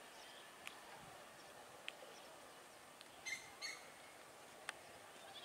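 Faint bird chirps over quiet outdoor background: single short calls about a second apart, and a louder pair of chirps a little past the middle.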